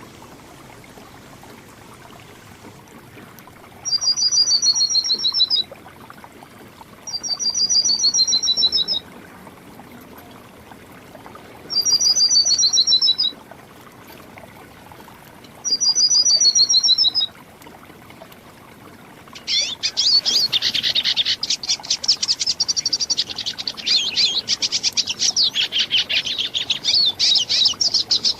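Songbirds singing: a short, fast trill that slides downward in pitch, repeated four times a few seconds apart, then a dense, continuous high twittering from about two-thirds of the way through.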